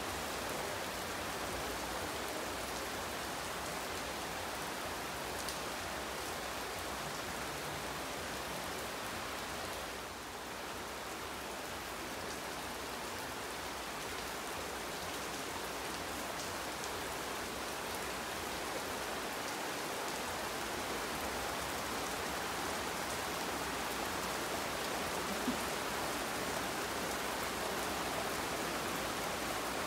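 Steady rain falling onto a swimming pool and paved courtyard: an even hiss of drops that eases slightly for a moment about a third of the way in.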